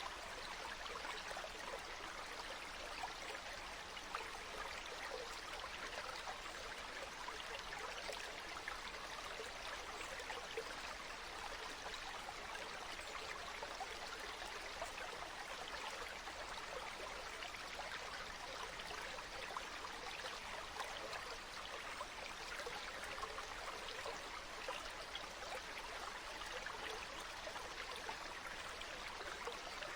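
Flowing water running steadily, an even rush with fine splashing and trickling in it.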